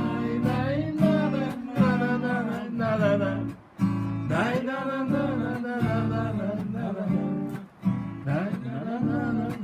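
Acoustic guitar strummed in chords with a voice singing a melody over it, a song to guitar accompaniment, with two brief breaks between phrases.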